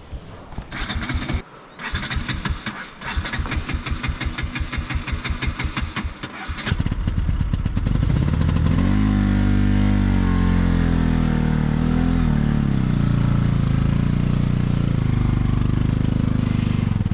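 Motorcycle engine being cranked over, a fast even chugging for a few seconds, then catching about seven seconds in. It revs up and settles into a steady, loud run.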